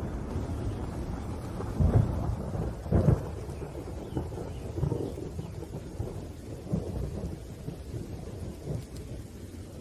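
Thunder over steady rain: two loud claps about two and three seconds in, followed by lower rolling rumbles that fade away.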